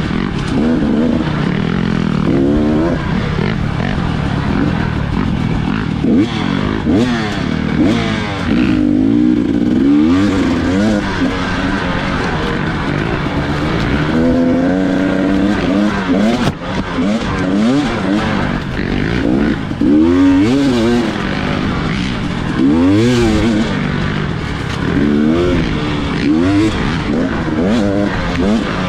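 Dirt bike engine revving up and down again and again through the gears, with rising and falling pitch as the throttle is worked.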